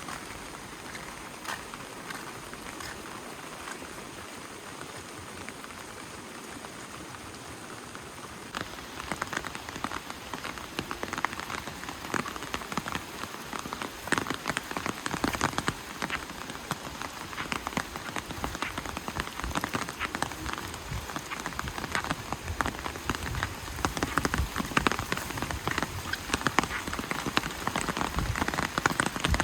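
Rain falling: a steady light hiss at first, then heavier from about eight seconds in, with many close drops pattering, growing louder toward the end.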